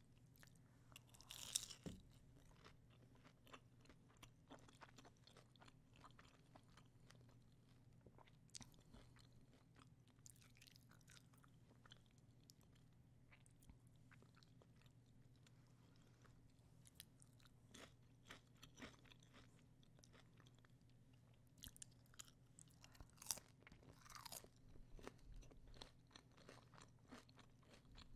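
Crunchy tacos being chewed close to the microphone: crisp crunching and many small clicks, with louder bursts of crunching about a second in and again near the end, over a faint steady hum.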